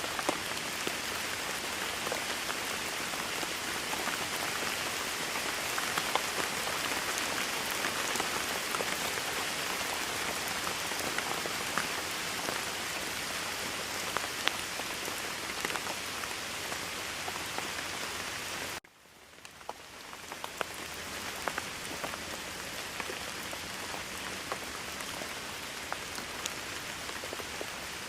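Steady rain falling: a dense hiss with scattered drop ticks. About two-thirds of the way through it cuts out suddenly and fades back in over a second or two, a little quieter than before.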